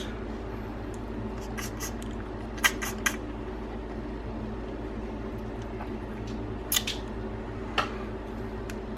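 Hands cracking and pulling apart a boiled crab's shell, a few short, sharp cracks and snaps scattered among quieter picking and squishing of the meat, over a steady low hum.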